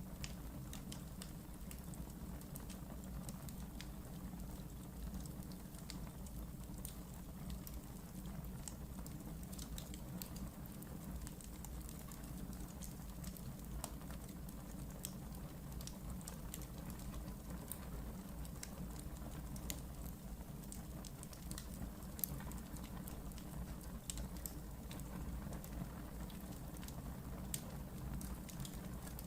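Wood fire burning in a fireplace, with a steady low rumble and frequent small, sharp crackles and pops throughout.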